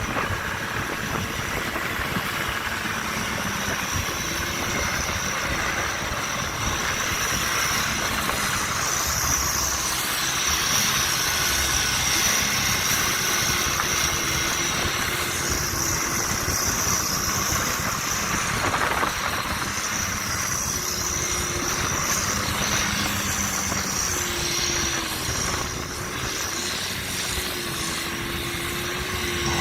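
Diesel engine of a Kirovets heavy articulated tractor running steadily, its pitch shifting a little as it works. A high whine rides over it, swelling and fading several times.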